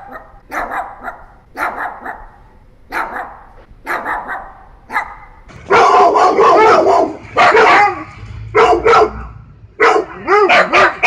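Dogs barking: single barks about once a second, then from about halfway much louder, rapid runs of barking.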